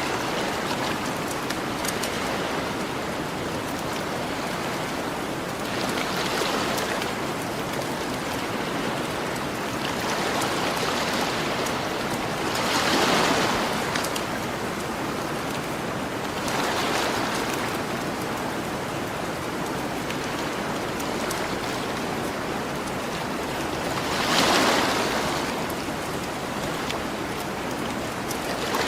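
Ocean waves washing onto a beach, a steady surf hiss that swells every few seconds as waves break, loudest about halfway through and again near the end. Small campfire crackles pop faintly over the surf.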